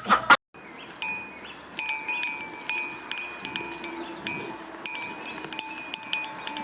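Wind chimes tinkling: many light, irregular strikes, each ringing on at the same few fixed pitches. They follow a cut from the last of a chicken's clucks in the first half-second.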